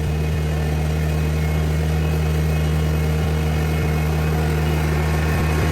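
New Holland TZ22 compact tractor's diesel engine running steadily at an even, unchanging pitch.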